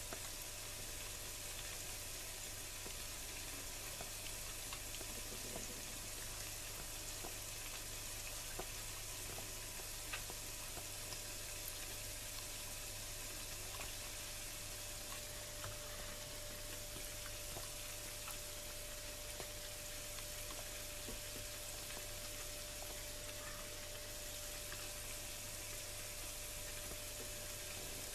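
Dosa batter of gram flour and rice flour sizzling steadily on a hot non-stick pan, with scattered faint crackles.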